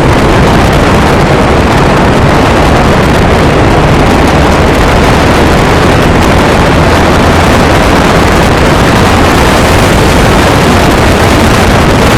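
Steady, loud rush and low rumble of a moving vehicle, unchanging throughout.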